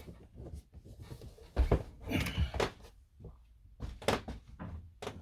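A series of knocks and thuds, the loudest about a second and a half in, with a short scraping clatter after it and two more knocks about four seconds in.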